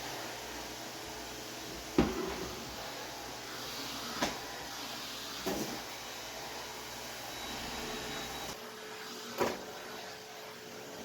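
Four short, sharp knocks and bumps of kitchen cleaning work over a steady low hiss; the first, about two seconds in, is the loudest.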